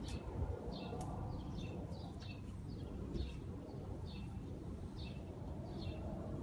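A small bird chirping over and over, about two short chirps a second, over a low steady background rumble.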